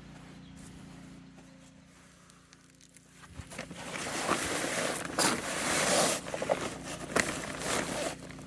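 Sandblaster blasting abrasive grit onto a truck frame: a loud, rough hiss that starts about three seconds in and surges unevenly, over a low steady hum.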